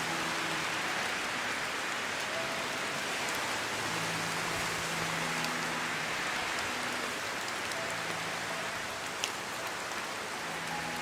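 Steady heavy rain falling, an even hiss with scattered individual drop ticks and one sharper tick about nine seconds in.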